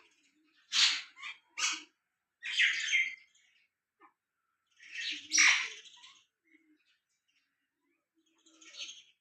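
Birds chirping in scattered short bursts with pauses between: three quick calls in the first two seconds, a longer chatter around the middle, and a fainter call near the end.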